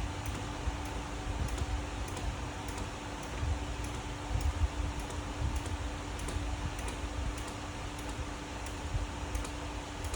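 Hand-operated fluid pump being worked steadily to pump Dexron III ATF into a manual transmission, its strokes giving light clicks about twice a second over a low, uneven rumble.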